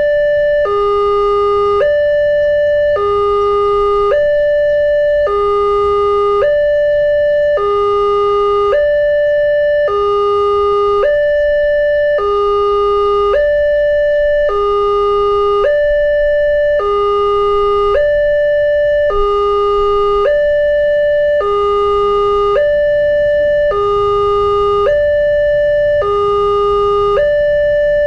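Railway level-crossing early-warning siren (Wantech EWS) sounding a steady hi-lo two-tone alarm, a higher tone and a lower tone alternating about once a second in an even repeating cycle: the sign that a train is approaching the crossing.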